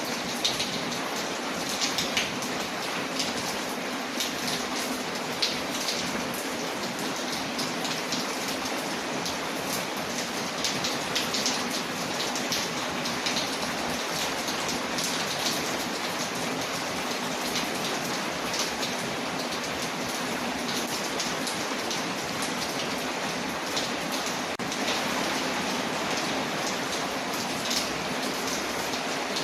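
Steady rain on a window mixed with a crackling wood fire: an even hiss dotted all through with many small sharp pops and ticks.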